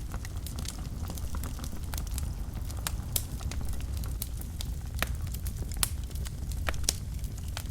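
Wood fire burning in a fireplace: a steady low rumble of flames with irregular crackling and a few sharper pops from the burning logs.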